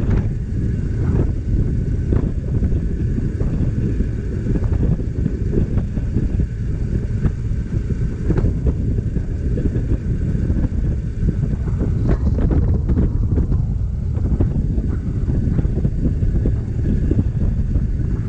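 Wind buffeting the microphone on a moving motorcycle: a steady, loud low rumble with road and engine noise underneath.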